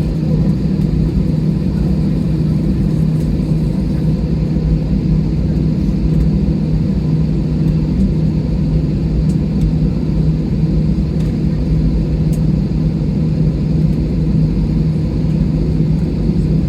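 Airliner cabin noise while taxiing: the jet engines running steadily at low power, a steady low drone with a hum.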